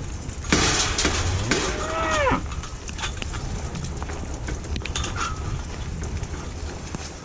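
A belted Galloway steer bawls once about two seconds in, a short call that rises and falls in pitch. A burst of noise comes just before it, and a steady low rumble of rain runs underneath.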